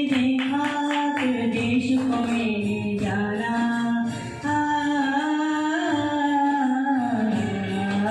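A singing voice holding long, wavering melodic notes without words, hummed or sung on vowels between verses of a song.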